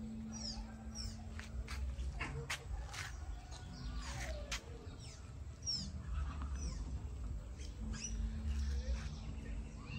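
Faint outdoor ambience: small birds giving a few short, high chirps that fall in pitch, over many light ticks and taps and a low rumble, with a faint steady hum.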